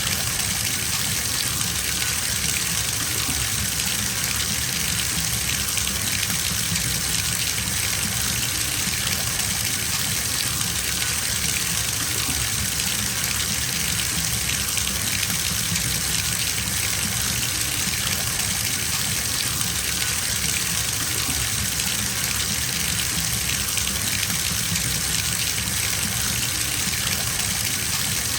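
Water running from a bathtub tap into the tub as it fills: a steady, even rush of water.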